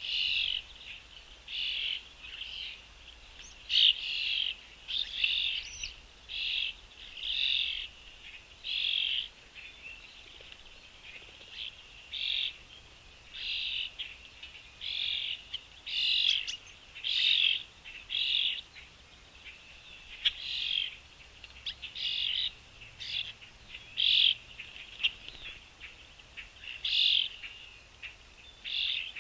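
Bird chirping over and over in short calls, about one a second, with a couple of short pauses.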